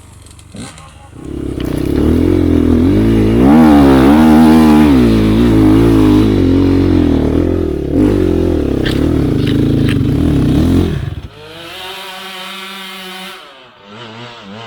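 Off-road enduro motorcycle engine revving hard under load, its pitch rising and falling repeatedly for about ten seconds. It then drops suddenly to a quieter, steadier running note that fades out near the end.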